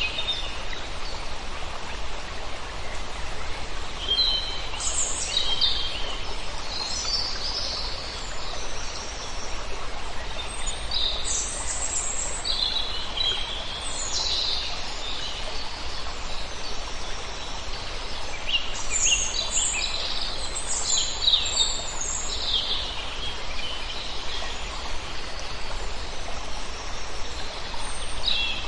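A flock of birds chirping, short high calls coming in scattered clusters over a steady background hiss.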